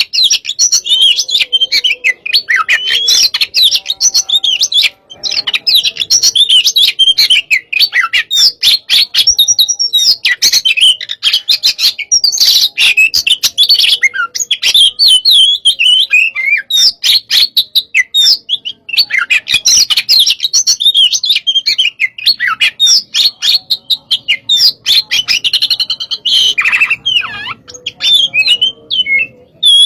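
Oriental magpie-robin (kacer) singing loudly, a fast, unbroken run of varied chirps and whistles with only brief pauses: the fired-up 'hot type' song used as a training recording for other birds.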